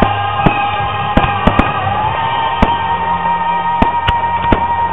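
Display firework shells bursting overhead in a string of sharp bangs, about nine in all, some coming in quick pairs. Under them plays music with long held notes and a low bass line, its main note stepping up about two seconds in.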